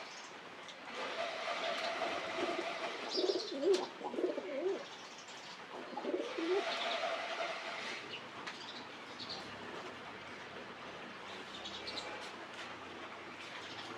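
Pigeons cooing in several rolling spells during the first half, then quieter, with a few brief high chirps.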